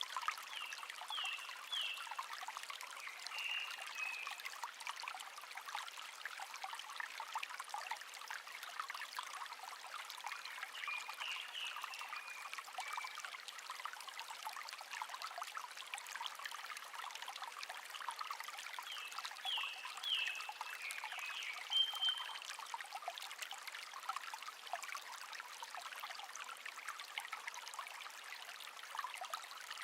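A small stream trickling and babbling steadily, with a songbird singing short chirping phrases about every ten seconds.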